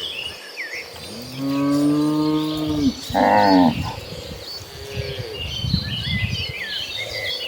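Domestic cattle in a herd mooing: a long low moo about a second in, a higher, shorter call right after it, then fainter moos. Small birds chirp in the background in the second half.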